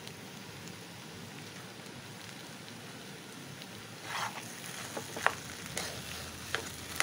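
Potato-and-capsicum stuffing sizzling with a steady hiss in an oiled non-stick kadai. About four seconds in, a metal spatula starts scraping and stirring through it, with a few sharp clicks against the pan.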